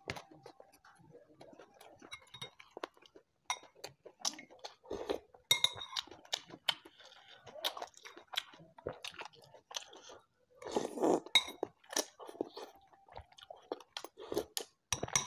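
Close-up chewing of rice and shrimp, with a metal spoon clinking against a ceramic soup bowl several times.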